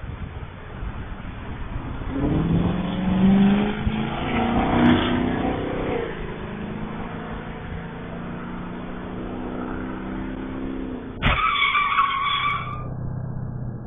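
Car on the road, recorded by a dashcam, with a wavering pitched sound from its engine or tyres that builds about two seconds in and fades out. About eleven seconds in it cuts abruptly to a different, higher steady tone.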